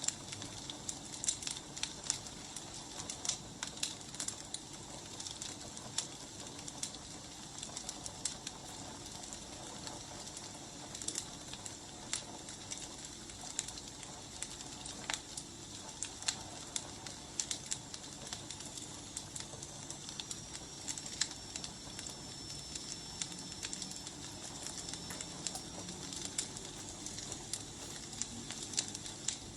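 Wood fire burning: a steady hiss with frequent sharp crackles and pops. A faint high whistle holds for several seconds past the middle.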